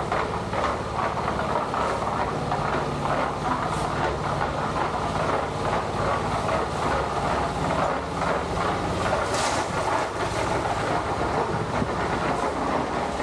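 A moving vehicle's steady rumble and road noise, with faint irregular knocks from a rough surface.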